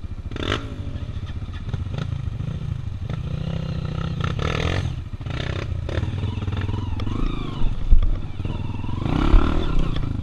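Single-cylinder trail motorcycle engine running and revving up and down, with knocks and clatter; two sharp loud knocks near the end.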